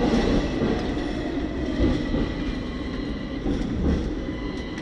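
Hong Kong double-decker tram running along its street rails: a steady rumble and rattle with a few light clicks.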